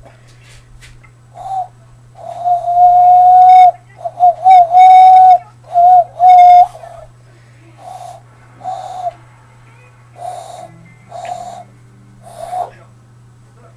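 Hand-cupped owl call: breath blown down across the thumb knuckles into cupped hands, giving hollow hoots on one steady pitch. A run of long, loud held hoots, some with a slight warble, is followed by five shorter, softer hoots about a second apart, over a faint steady low hum.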